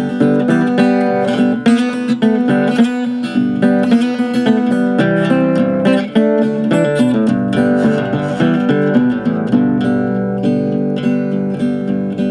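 Instrumental break in a folk song: acoustic guitar strummed and picked in a steady rhythm.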